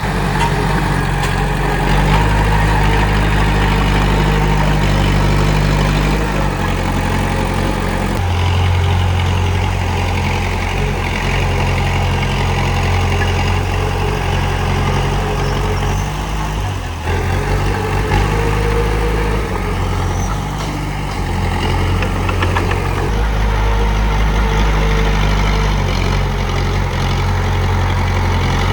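Komatsu D31P bulldozer's diesel engine running steadily, its pitch and load shifting several times as it works.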